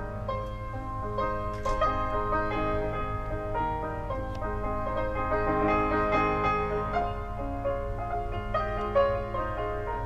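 Piano music: a melody of distinct notes, with a steady low hum underneath.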